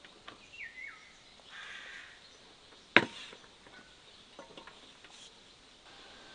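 A single sharp chop about three seconds in, the loudest sound, among lighter taps and a short rustle, typical of food or wood being prepared by hand. A short falling bird call sounds near the start.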